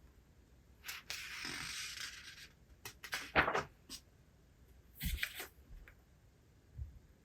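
Paper and book handling: a rustling slide of about a second and a half, then a cluster of sharp clicks and knocks, a few more taps, and a soft thump near the end.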